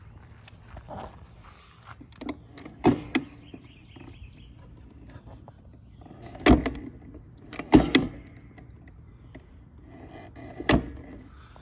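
Work sounds on a riding lawn mower: four loud, sharp knocks spread through, with smaller clicks and rattles between them, as of tools and metal parts being handled.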